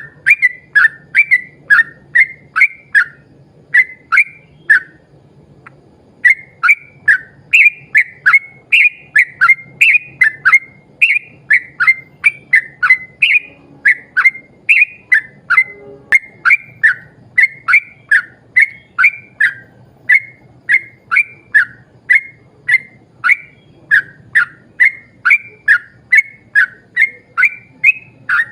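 Yellow-vented bulbul (trucuk) singing a long run of short, bubbling whistled notes, about two a second, with one brief break about five seconds in.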